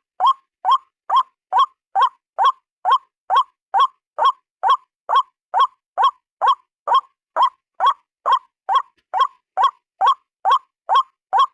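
White-breasted waterhen call, a single short note repeated at an even pace of a little over two notes a second, as in a looped bird-lure track.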